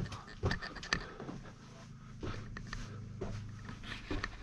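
Footsteps scuffing and tapping on the dirt and rock floor of an underground opal mine tunnel, irregular and a few a second, over a low steady hum.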